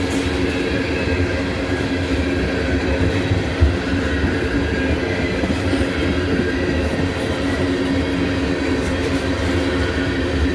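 A train of empty tank cars rolling past on the rails, a steady rumble of wheels with faint held tones running through it. The wheels growl rather than hum because the rails have been ground down, leaving little grooves.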